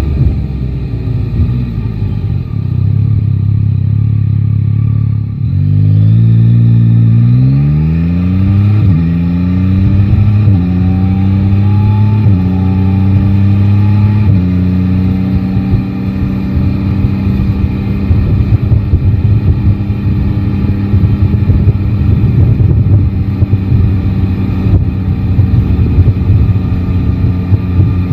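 Yamaha Tracer 9 GT's 890 cc inline-three engine easing off to a low steady run, then accelerating hard about five seconds in. It goes up through five quick upshifts, each a rising pitch cut short by a dip, and settles into a steady cruise. Wind buffets the microphone through the cruise.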